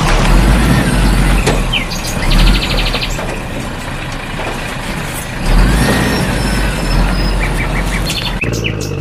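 Heavy vehicle engine running with a steady low rumble that swells now and then, with birds chirping and trilling over it.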